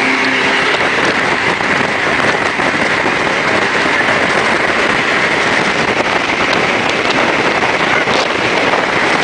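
Jet boat running at speed: a steady, dense rush of wind on the microphone and water spray that mostly buries the engine, whose hum shows through only in the first second.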